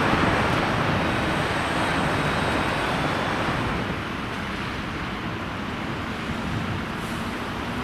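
Jet engines of a passing airliner: a steady rush with a faint high whine that fades away, the level dropping about four seconds in. Wind buffets the microphone underneath.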